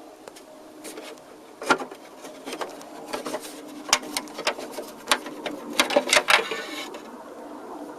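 Irregular clicks and knocks of turntable parts being handled and taken apart during disassembly, with a sharp knock under two seconds in and a quick run of clicks about six seconds in.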